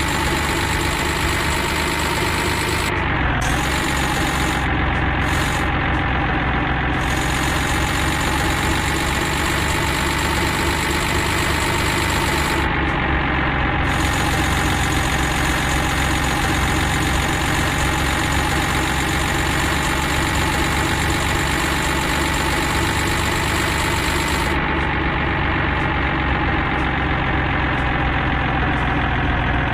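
An engine idling steadily, with only a slight dip in pitch about three seconds in.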